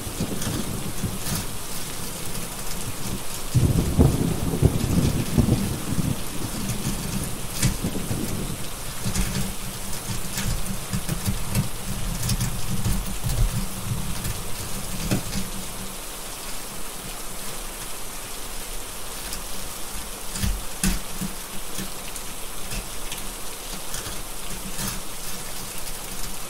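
Steady rain with a deep thunder rumble that swells about four seconds in and fades away over the next ten seconds. Scattered sharp crackles from a wood fire sound over the rain.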